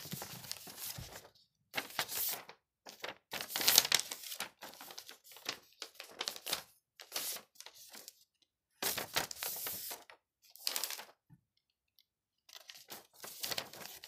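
A sheet of paper being folded and creased by hand: short bursts of rustling and crinkling with pauses between them.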